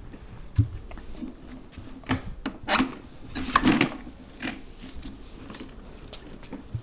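Irregular rubbing and scraping with scattered knocks and clicks as lawn mower parts are handled and fitted during assembly, busiest a few seconds in.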